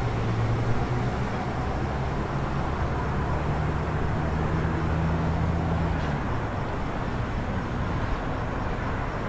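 City street ambience: steady traffic noise, with a vehicle engine's low hum that cuts out about six seconds in.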